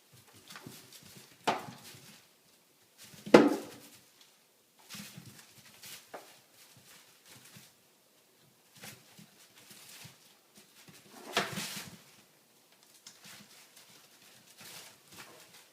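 Puppies scuffling and reacting around a broom: a run of scattered short scrapes and knocks, with three louder sounds, the sharpest about a third of the way in.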